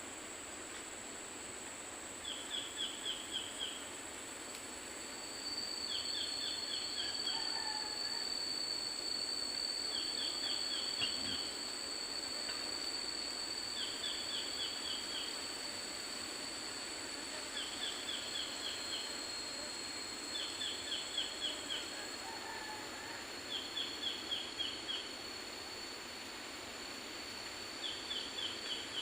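Tropical forest ambience: a bird repeats a short phrase of five or six quick, falling notes every few seconds, over a steady high-pitched insect drone and a soft background hiss. A second, lower insect tone joins about five seconds in.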